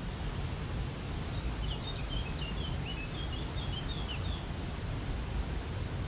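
Steady rushing of a waterfall, with a small bird giving a quick run of short, high chirps from about a second in until past the middle.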